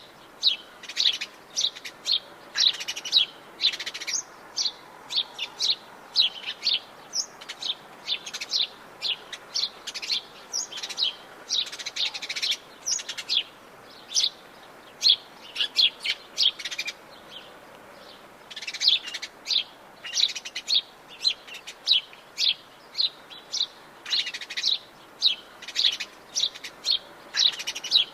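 Wild birds chirping and calling, short high-pitched notes several times a second, with a brief lull about two-thirds of the way through.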